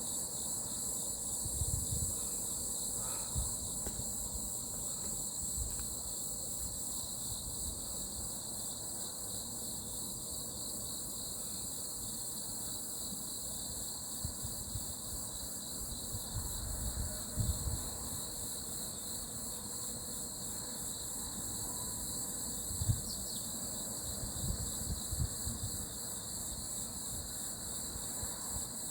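Steady chorus of crickets and other insects, a continuous high trilling, with occasional short low rumbles.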